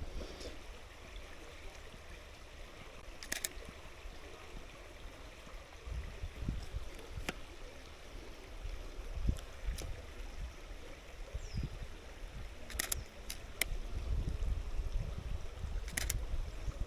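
Canon 77D DSLR shutter firing several times, some shots as quick double clicks, over the steady low rush of a stream.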